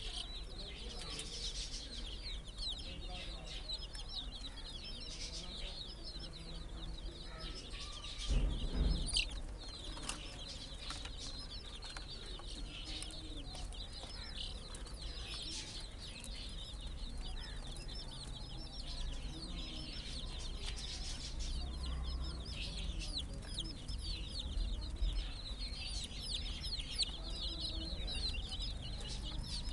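A flock of baby chicks peeping continuously, many high chirps overlapping. A brief low bump about eight seconds in is the loudest moment.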